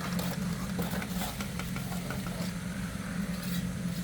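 An engine running steadily at idle, a constant low hum, with scattered light knocks and clatter over it.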